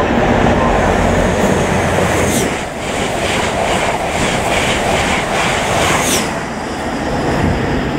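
East Midlands Railway HST with Class 43 power cars and Paxman VP185 diesel engines passing through the station at speed without stopping. Loud engine and rail noise, then a quick run of regular wheel clacks as the coaches go by over the rail joints, and the trailing power car near the end.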